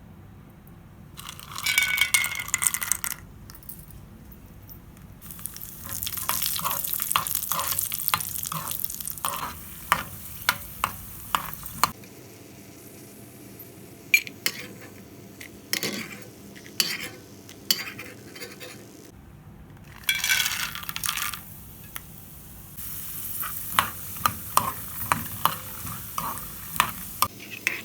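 Frying in a pan: hot oil sizzling in bursts as ingredients go in, with a spatula stirring, scraping and tapping against the pan. A quieter stretch midway holds only occasional taps.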